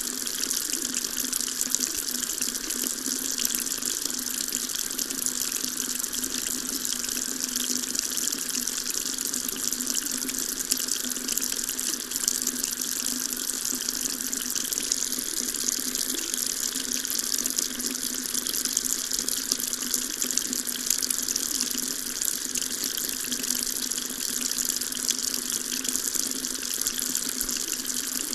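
Water tap running steadily, a continuous stream of water splashing with a high hiss.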